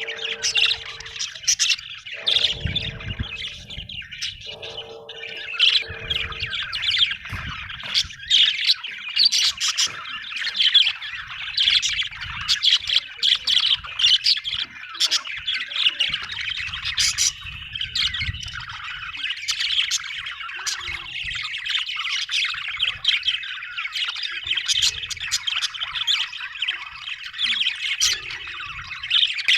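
A flock of small parrots chattering continuously, with many overlapping chirps and squawks. In the first few seconds a low steady tone comes and goes three times under the chatter.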